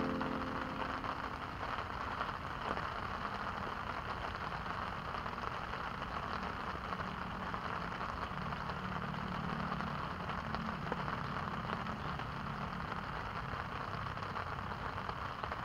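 Steady rain falling on a pond, an even hiss of drops on the water without a break.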